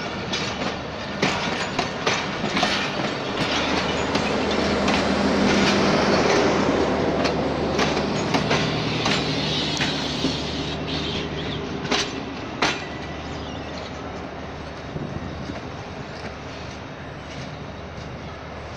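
Passenger coaches rolling slowly past on the next track, their wheels clicking irregularly over the rail joints. The sound fades in the last few seconds as the end of the train moves away.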